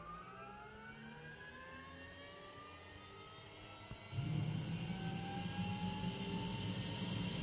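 Helicopter heard from inside the cabin: the turbine's whine climbs steadily in pitch as the engine spools up, and about four seconds in a loud low rotor drone comes in and holds steady.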